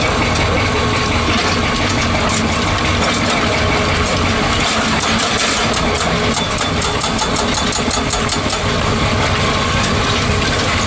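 Excavator diesel engine running steadily. From about four and a half to eight and a half seconds in, a rapid train of sharp ticks rides over it.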